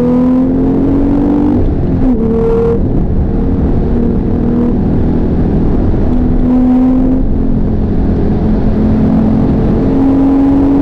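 Porsche 911 GTS's twin-turbocharged flat-six engine running hard under acceleration. Its note rises, breaks sharply about two seconds in, and climbs again near the end.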